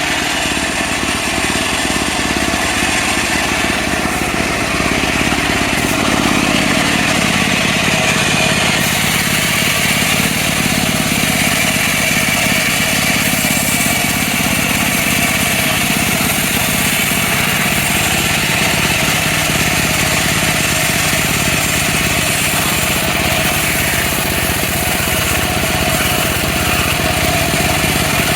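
Engine of a mobile bandsaw sawmill running steadily, with a slight change in tone about six seconds in.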